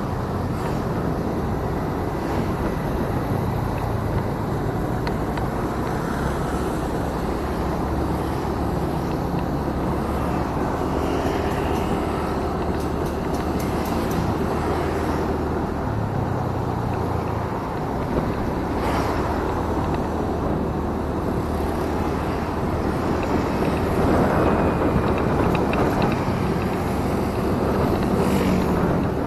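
Motorcycle engine running steadily on the move, with wind noise on the action camera's microphone.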